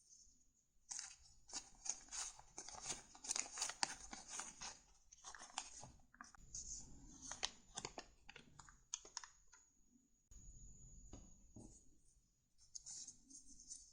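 Close handling of cards or paper: crackly rustling with many light clicks and taps, pausing briefly near the end before starting again.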